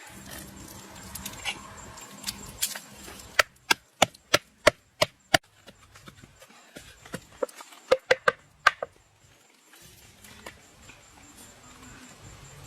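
Knife chopping on a wooden board: a run of about seven sharp, evenly spaced strokes, roughly three a second, then a quicker cluster of four or five strokes a couple of seconds later.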